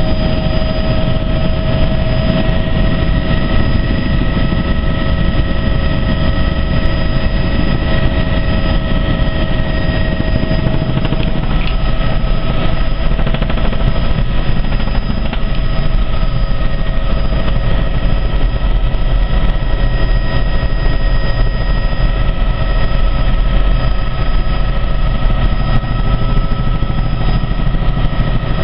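Helicopter in flight: a steady, loud engine-and-rotor drone with a low rumble and a constant high-pitched whine.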